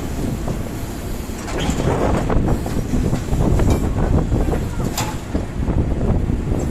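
Road-works machinery: a heavy, steady low rumble with scattered metallic clanks and knocks, the sharpest about five seconds in.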